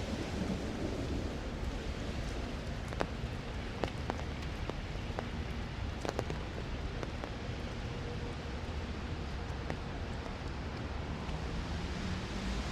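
Steady rain falling, with a few sharp, separate drop ticks standing out in the middle.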